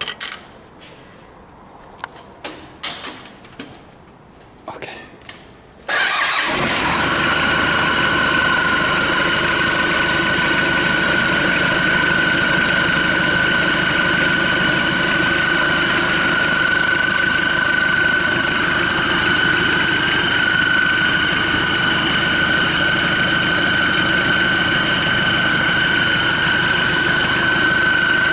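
A few clicks and knocks, then about six seconds in a Hyundai D4BH 2.5-litre four-cylinder turbodiesel, run outside the vehicle for a test, starts abruptly and keeps running steadily with a steady high whine over it.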